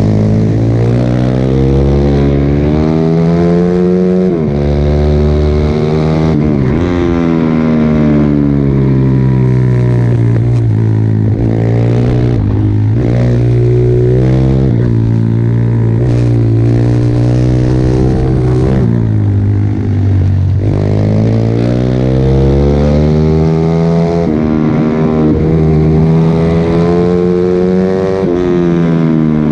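Pit bike's small single-cylinder engine under hard riding, its revs climbing and dropping repeatedly as it accelerates and slows, with several sharp falls in pitch.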